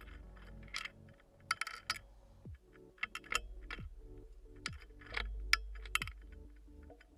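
Soft ambient background music with steady low tones and repeated falling notes. Over it come irregular sharp clicks and taps, some in quick clusters, typical of birds pecking at seed right by the camera.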